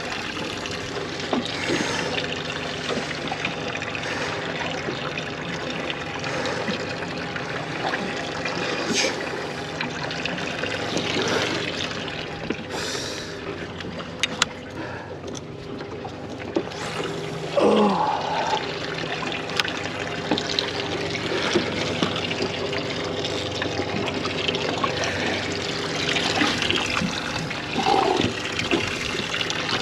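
Water trickling steadily aboard a small fishing boat, over a faint steady hum. Two short sliding tones come through, one about two-thirds of the way in and one near the end.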